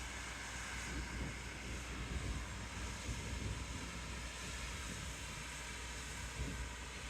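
Amtrak train running, a steady low rumble with an even rushing hiss.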